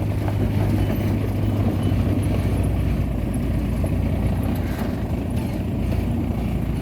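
Heavy diesel engine of a bulldozer running in a steady low drone, its note shifting about halfway through.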